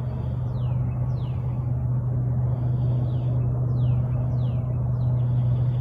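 Birds calling repeatedly, each call a short high whistle sliding downward in pitch, about eight calls in all, over a steady low hum.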